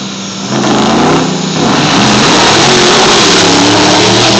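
Two pro stock diesel pickup trucks at full throttle down a drag strip. The engine noise jumps sharply about half a second in, the engine pitch climbs in steps, then the noise holds loud and steady.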